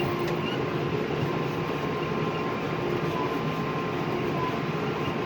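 Steady running drone of a farm vehicle's engine and drivetrain, heard from inside the cab, with faint steady whining tones over it.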